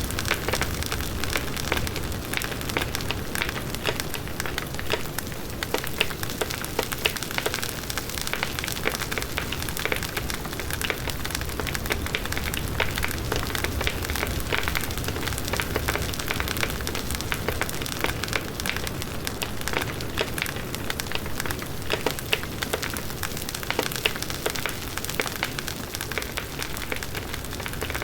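Large wood bonfire burning, with the steady rush of flames and dense, continuous crackling and popping of the burning wood.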